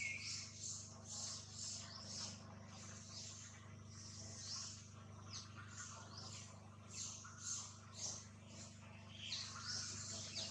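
Small birds chirping, with short high falling whistles repeated several times a second, over a steady low hum.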